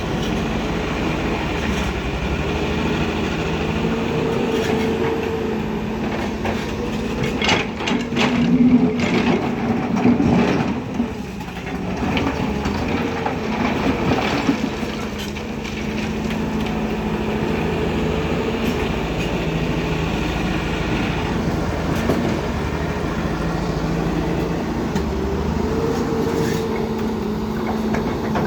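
Diesel engine of heavy construction machinery running steadily under load, with a burst of metallic clanks and knocks about eight to ten seconds in.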